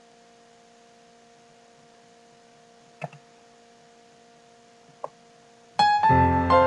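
A faint steady electrical hum of a few fixed tones, with two soft clicks about three and five seconds in, then piano music starts loudly near the end.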